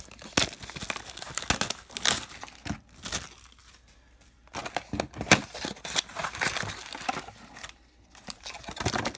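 Plastic wrapping on a baseball-card hobby box crinkling and tearing as the box is unwrapped and opened, in irregular handling bursts with a couple of short pauses.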